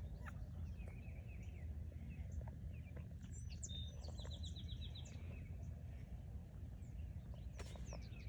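Small songbirds chirping, with one quick trill of about seven repeated high notes a few seconds in, over a steady low background rumble.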